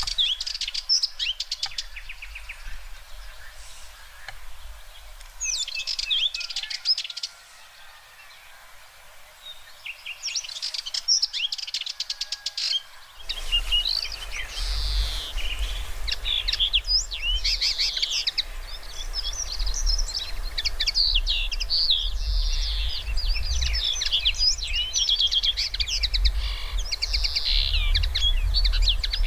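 Songbirds chirping and singing in quick trills, sparse at first and then dense and overlapping after a change about halfway through, when a low rumble also comes in.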